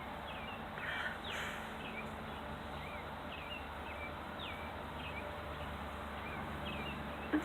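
Small birds chirping outside, a string of short high chirps every half second or so, over a steady low hum of road traffic coming through an open window.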